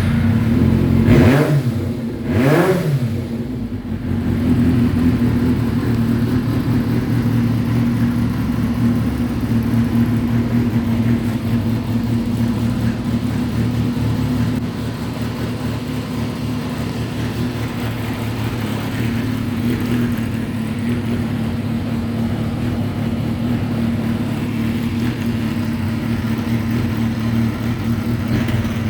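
Yamaha XJR400R's air-cooled inline-four motorcycle engine through a new RPM aftermarket exhaust, just started. It is blipped twice in the first few seconds, then settles into a steady idle.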